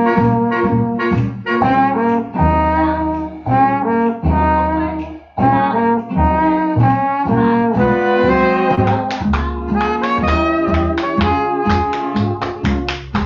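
Recorded swing jazz band playing, with trumpets, trombones and saxophones over a steady beat.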